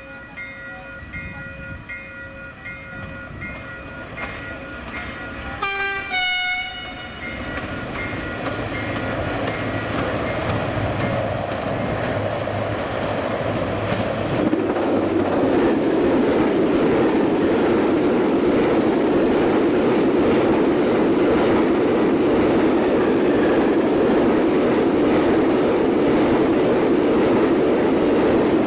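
Vossloh Euro 4000 diesel-electric freight locomotive sounding a short horn blast about six seconds in, then its engine growing louder as it approaches and passes. From about halfway through, the steady rolling rumble and clatter of a long rake of container flat wagons passing close by.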